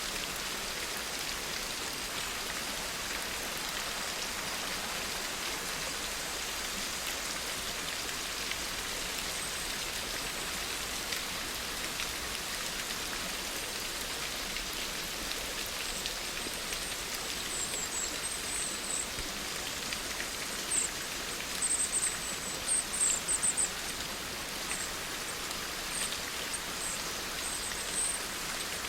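Steady rain falling. A little past halfway, clusters of short high-pitched chirps join in over the rain and are the loudest sounds for a few seconds.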